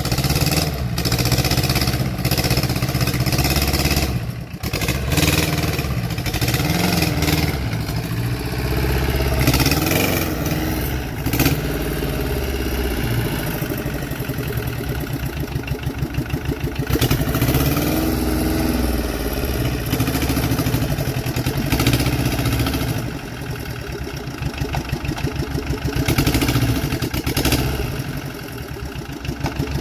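Tata Ace engine of a homemade small tractor running steadily, its speed rising and falling a few times.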